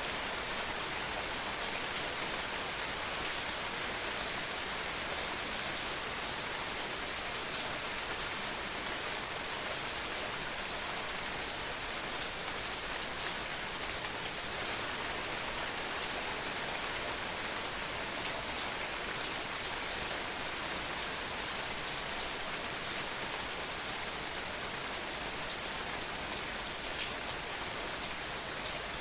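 Steady rain falling, an even hiss of drops on surfaces with no change in strength.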